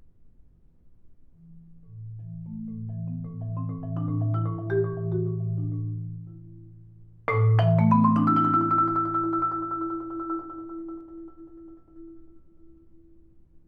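Solo marimba: a rising run of notes, starting from low bass notes that keep ringing, swells for a few seconds and fades. About seven seconds in, a loud struck chord with a quick upward sweep rings on and dies away.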